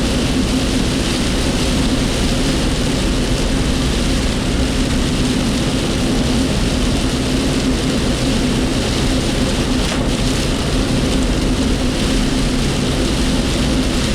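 Steady engine and road noise inside the cabin of a moving work vehicle: a constant drone with a low hum and rumble.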